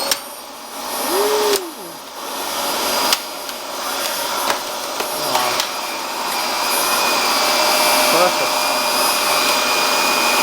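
Dyson DC24 upright vacuum cleaner running after its clog has been cleared. The motor spins up with a rising whine at the start, then runs steadily with a hiss and a high whine, with a few sharp knocks.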